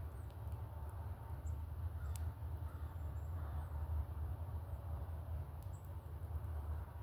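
Short, high chip notes from small birds, scattered every half second to a second, over a steady low rumble.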